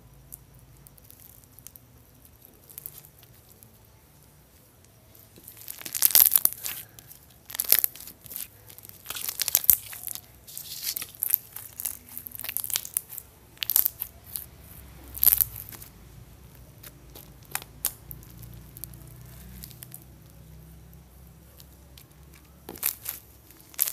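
Crunchy slime squeezed and pressed by hand, giving irregular bursts of crackling and crunching pops every second or two, after a few quiet seconds at the start.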